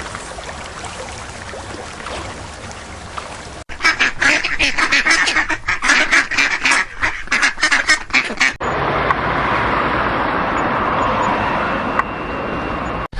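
Ducks quacking in a rapid, overlapping chorus for about five seconds, with a steady noise before and after.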